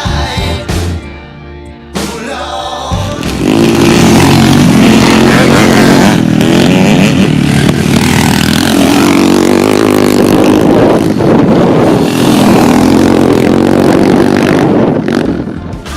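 Motocross motorcycle engines revving hard at full throttle, getting loud about three seconds in and easing near the end, with music underneath.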